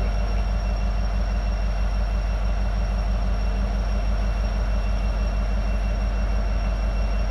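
EMD diesel-electric locomotives idling while stopped: a steady low engine drone that holds even without revving.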